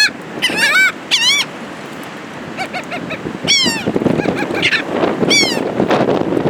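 Gulls giving short, repeated calls, about seven in all, each a brief arched cry. Beneath them is a steady rush of wind and surf that gets louder about halfway through.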